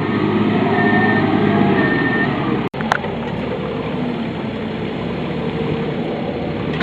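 Rear-loader truck's diesel engine running steadily. The sound drops out for an instant just under three seconds in.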